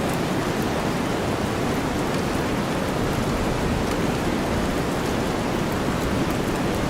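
Steady rainfall blended with deep white noise, a dense even hiss with a low rumble underneath and faint drop patter in the highs.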